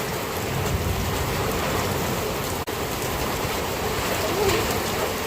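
Monsoon rain pouring down steadily, an even hiss of water on surfaces, with a momentary dropout about two and a half seconds in.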